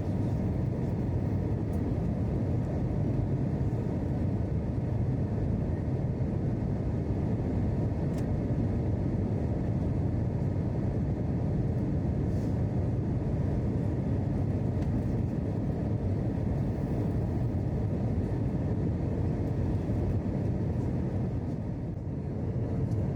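Steady cabin noise inside an Airbus A321 in flight: the even low roar of the engines and airflow.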